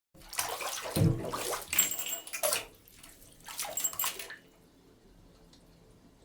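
Bathtub drain gurgling as the last water goes down, in a few loud surges over about four seconds, then it falls to near silence.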